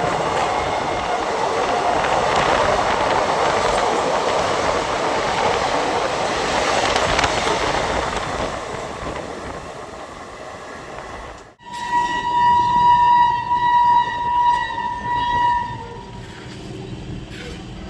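Electric multiple unit (EMU) local train running through with steady wheel and rail noise that fades away; after a sudden cut, a train horn sounds one steady blast of about four seconds.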